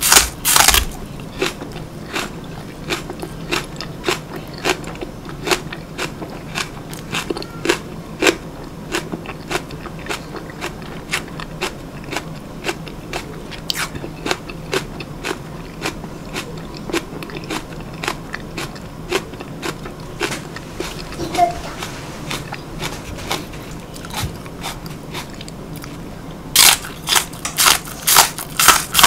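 Raw green onion (daepa) stalk being bitten and chewed: crisp crunching, with loud bites at the start and again near the end, and softer chewing crunches in between.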